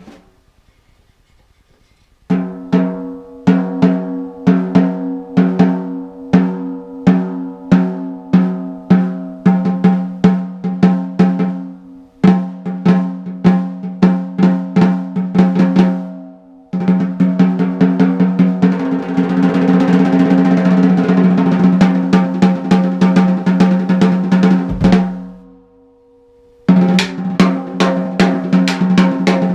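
PDP Limited Edition 6x14 wood hoop snare drum with a brand-new head tuned low-medium, played in single strokes about two a second, then a fast roll that fades out, then strokes again near the end. Heard through a GoPro's built-in mic in the room.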